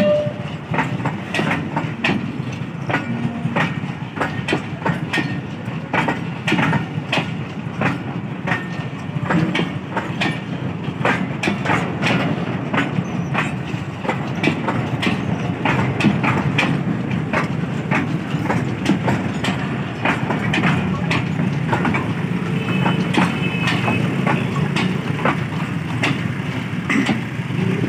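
Freight train of tank wagons creeping past at close range: a steady low rumble of wheels on rail, with frequent irregular clicks and clanks as the wheels cross rail joints.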